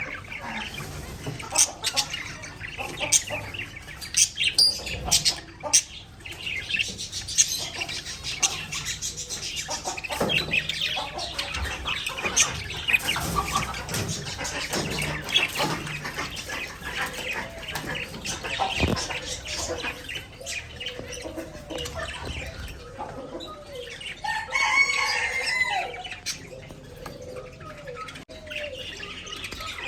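Pet budgerigars chirping and chattering, with many sharp clicks of beaks pecking at food and a louder warbling call near the end.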